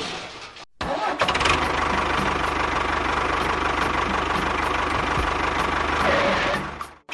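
A small engine running steadily, with a faint regular ticking over an even hum; it starts abruptly after a brief silence about a second in and fades out just before the end.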